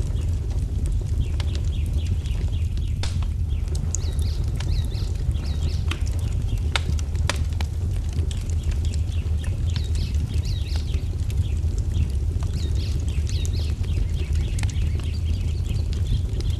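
Wood fire crackling, with irregular sharp pops over a steady low rumble, while small songbirds chirp and twitter in quick repeated notes throughout.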